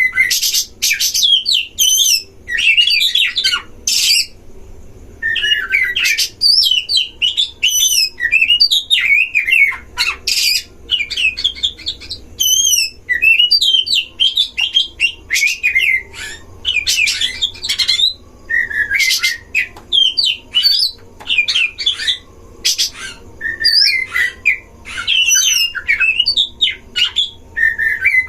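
Oriental magpie-robins (kacer) singing against each other in a loud, continuous stream of fast whistles and warbles broken by harsh chattering notes.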